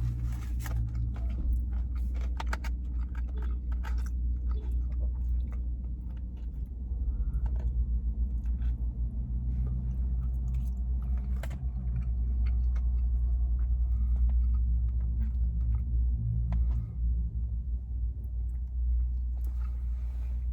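Close-up chewing and mouth sounds of someone eating loaded asada fries, with small wet clicks and crunches, over a steady low rumble from the car he sits in.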